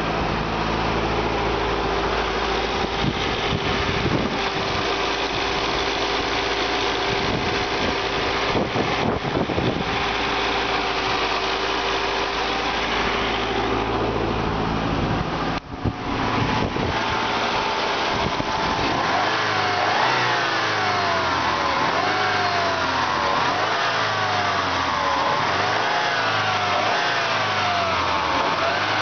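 1986 Saab 900's inline-four engine idling too high with its exhaust refitted on a new downpipe. It runs steady at first. About two-thirds of the way through, the engine speed begins to rise and fall again and again, roughly every two seconds.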